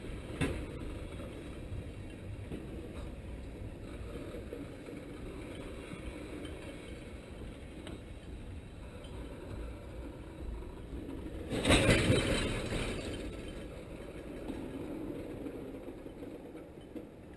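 Railroad tank cars rolling slowly along the track: a steady low rumble of steel wheels on rails, with metallic clinking. A sharp click comes just after the start, and about twelve seconds in a loud burst of metallic noise lasts about a second.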